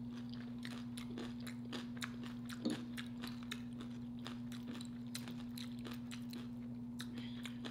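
Close-miked chewing of a chili cheese hot dog: many small wet mouth clicks and smacks over a steady low hum.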